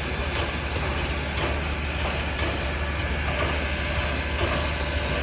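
Steady steam hiss from the coupled steam locomotives 630 and 4501 standing together, over a steady low rumble.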